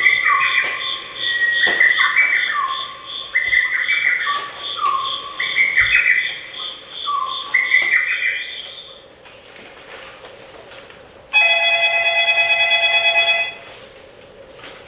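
A short electronic tune played through a speaker, repeating a little stepped phrase about every two seconds, stops about nine seconds in. A harsh electronic buzz follows about two seconds later and lasts about two seconds.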